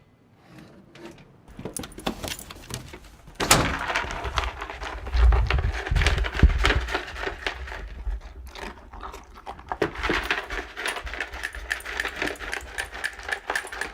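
A golden retriever eating dry dog food from a large bowl: quick, continuous crunching and clinking of kibble against the bowl, with a few heavier low knocks of the bowl around the middle.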